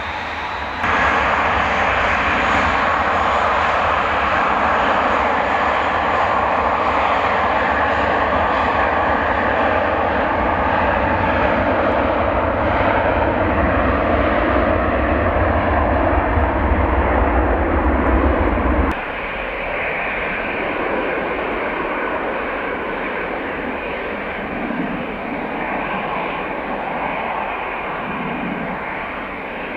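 Jet airliner engines running, a loud steady noise with a held hum. The sound jumps up suddenly about a second in and drops to a quieter engine noise a little past halfway.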